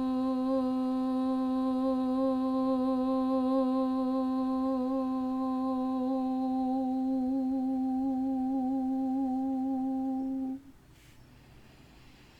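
One person chanting the syllable "so" as a single long, steady note for about ten and a half seconds, a throat-chakra chant in pranayama sound breathing. The note then stops, followed by a short quiet pause.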